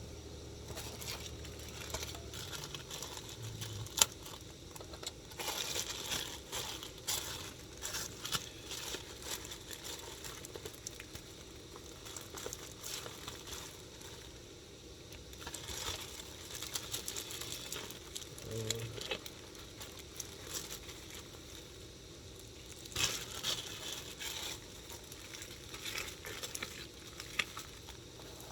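Plastic packaging crinkling and small clicks of things being handled while food is got ready, coming in bursts, with one sharp knock about four seconds in.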